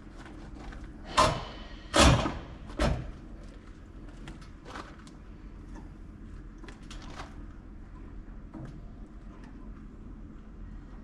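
Three loud knocks or bangs a little under a second apart, the second the loudest, followed by scattered light clicks and taps.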